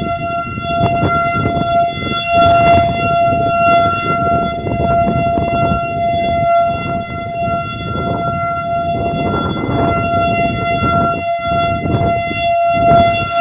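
Outdoor tornado warning siren sounding a steady, held tone that swells and fades slightly, a sign of a tornado warning in effect. Gusty wind rumbles on the microphone underneath.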